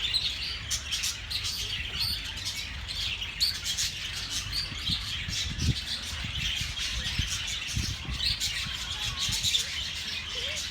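Many small birds chirping at once, a dense run of short high chirps that never stops. A low rumble sits underneath, with a couple of dull low thumps about halfway through.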